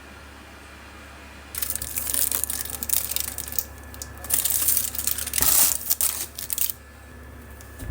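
Crinkling and rustling in uneven bursts, starting about a second and a half in and stopping shortly before the end, over a steady low hum.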